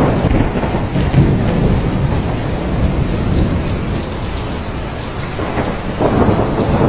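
Thunderstorm: steady heavy rain with rolling thunder rumbling under it. The rumble eases in the middle and swells again about six seconds in.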